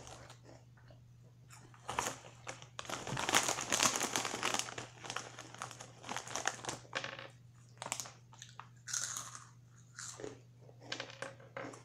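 Close-up crunching and chewing of Cheetos, the crunching densest about three to five seconds in, over a steady low hum.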